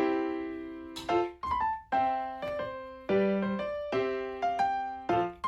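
Background music: a light piano tune, each note struck and left to die away, in short phrases that repeat about every two seconds.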